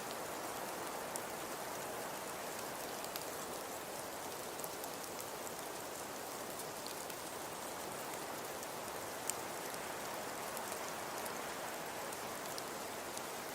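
Wood fire crackling: a steady hiss with scattered sharp pops, the loudest about nine seconds in.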